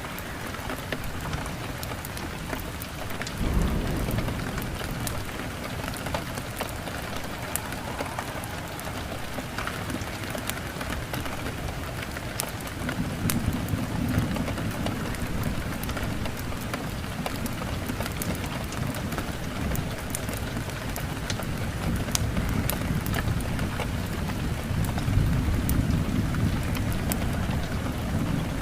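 Steady heavy rain with thunder rolling in low rumbles: one about three seconds in, a longer one starting a little before halfway, and another near the end. Scattered sharp crackles sit over the rain.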